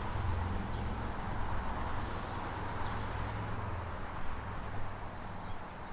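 Ford Mustang GT's Gen3 Coyote 5.0 V8 idling steadily with a low rumble, through BBK long-tube headers and an H-pipe resonator delete.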